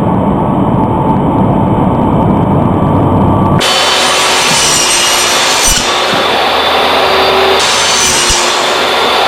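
Power saw cutting through wood, running loud and continuous; about three and a half seconds in the sound changes abruptly to a brighter, harsher cutting noise.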